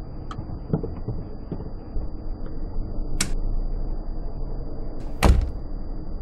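Steady low road noise with a few light knocks, a sharp click about three seconds in, and a single loud thud a little past five seconds in.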